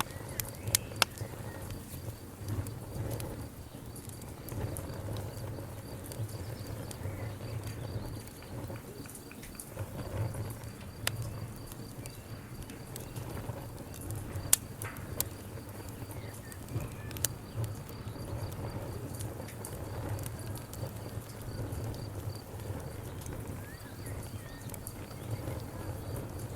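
Burning wood in a campfire crackling, with irregular sharp pops and snaps over a steady low rumble; one pop about halfway through is the loudest.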